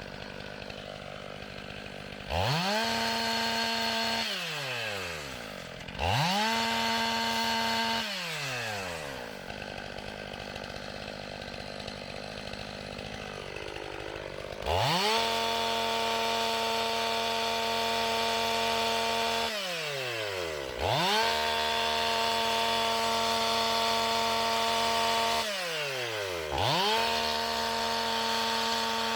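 Chainsaw brought up to full throttle five times, each run held steady for a few seconds before dropping back to idle.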